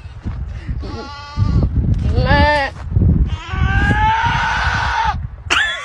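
Three bleat-like cries over low rumbling noise: a short one about a second in, a quavering one that falls in pitch, then a long one rising in pitch.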